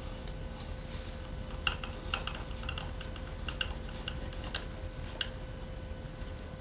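A run of about a dozen light metallic clicks and clinks, like small tools or engine parts being handled, between about one and a half and five seconds in, over a faint steady hum.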